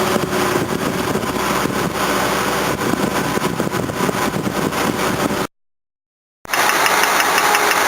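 Old car engine running with the air-conditioning compressor engaged; the compressor is starting to sound a bit knocky and the engine is not running well. The sound cuts out completely for about a second near the end, then resumes.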